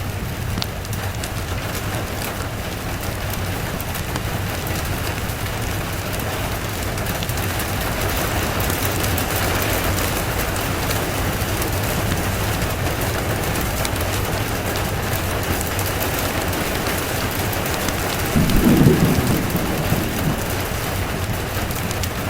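Steady rain falling, swelling a little about halfway through, with a short low rumble of thunder near the end that is the loudest moment.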